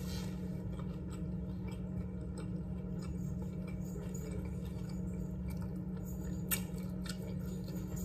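A person chewing a chicken breast sandwich with soft, wet mouth sounds and small clicks, one of them sharper about six and a half seconds in, over a steady low hum.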